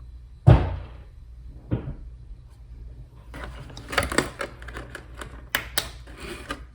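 Handling of an action figure's plastic packaging and small accessories: a sharp knock about half a second in and a lighter one soon after, then a run of rustling and plastic clicks.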